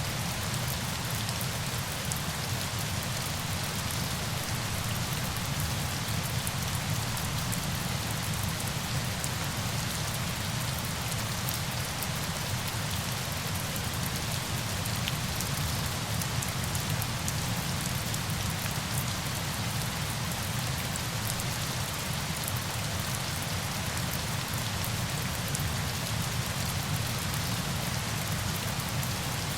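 Steady rain: an even hiss with a fine patter of drops throughout.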